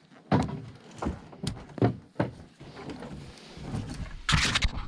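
A series of hard thumps and knocks, half a dozen spread over the first two seconds, then a short burst of clattering near the end.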